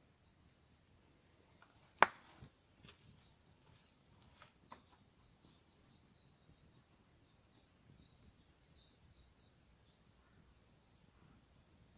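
Burning firewood in a campfire crackling: one sharp pop about two seconds in, then a few softer crackles. Birds chirp faintly in the background through the second half.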